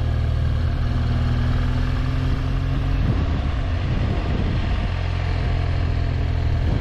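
BMW R1200GS boxer-twin motorcycle engine running at a steady pace.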